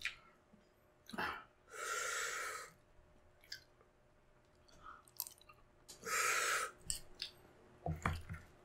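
Close-miked eating of spicy balut: chewing and mouth clicks, with a few sharp spoon clicks. Two breathy hisses come about two and about six seconds in.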